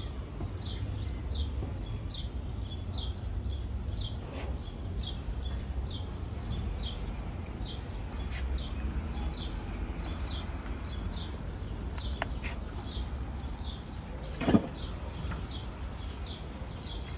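A bird repeating a short, high, falling chirp about every half second, over a steady low background rumble. A single thump sounds near the end.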